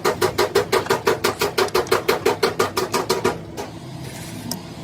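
Rapid, even hammer strikes on metal, about six a second, each with a short ring, stopping about three and a half seconds in.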